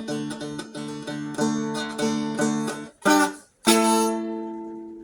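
Seagull Merlin, a four-string dulcimer-style instrument, strummed in a quick tune over steady ringing drone notes. About three seconds in the playing breaks off. A last strum then rings out and fades.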